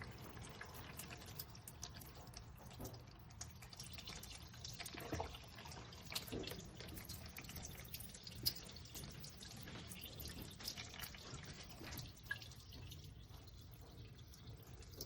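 Faint dripping and trickling of water leaking out of a Gevi 10-cup drip coffee maker's water reservoir just after it has been filled, with a few separate drip ticks: the reservoir leaks.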